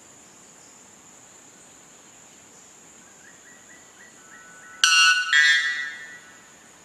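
White bellbird calling: two loud, ringing blasts about half a second apart, with a steady high-pitched hum underneath.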